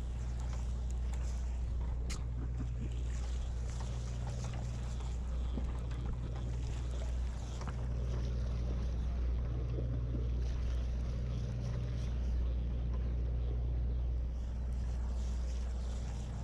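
Sportfishing boat's engine running with a steady low drone, with a hiss of wind and water over it.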